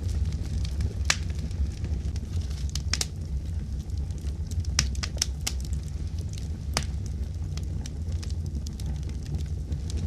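Fire crackling: a steady low rumble with a scattering of sharp, irregular pops, about seven clear ones across the stretch.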